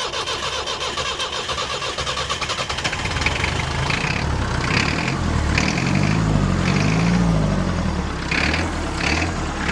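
Perkins 4.203 four-cylinder diesel on a forklift, cranked over by its starter with an even pulsing beat, catching about three seconds in and running with its revs rising and falling. It starts now that air has been bled from its fuel system, which is being starved by air drawn in at the lift pump.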